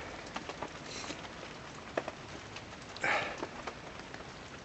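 Heavy rain pattering steadily on the tipi canvas, with scattered sharp drips, and one short louder rustling noise about three seconds in.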